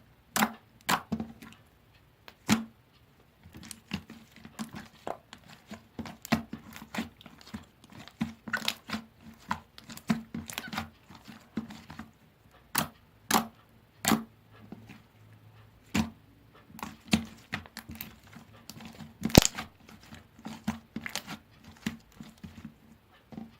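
Jelly-textured slime being squeezed, poked and stretched by hand, giving irregular sharp clicks and pops, several a second, one loud pop near the end.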